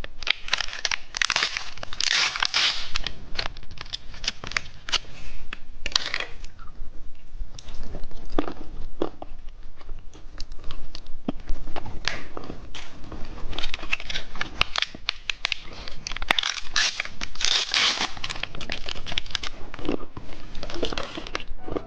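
Plastic candy wrapper crinkling and tearing as it is opened and handled, in irregular clusters of crackles and sharp clicks.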